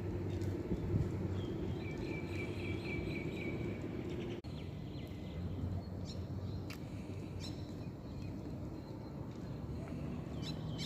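Outdoor ambience with a steady low hum and birds chirping: a quick run of repeated chirps from about one and a half to four seconds in, then scattered short calls.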